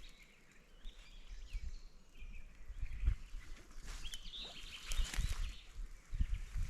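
A bird calling in short, wavering chirped phrases, once early on and again about four seconds in, over low thumps and rustling.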